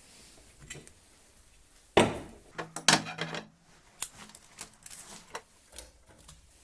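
Tools or metal parts being handled and set down on a workbench: a sharp knock about two seconds in, a short clatter just after, then scattered light clicks and taps.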